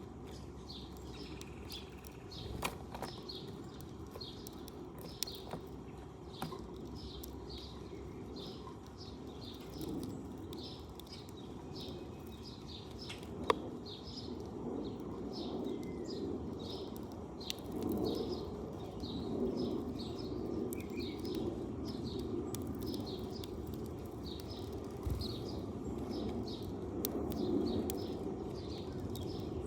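A sparrow chirping over and over in a steady run of short high chirps, about two a second, over a low background rumble with a few sharp clicks.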